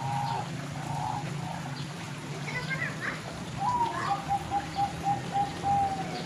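Oriental magpie-robin calling from inside a covered cage: a few quick high chirps, then a fast run of about eight short, evenly spaced whistled notes near the end, over a steady low hum.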